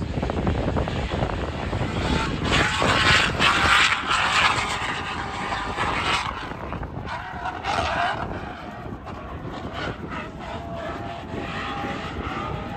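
Race car engine noise, swelling loudest a few seconds in, with a wavering engine tone near the end.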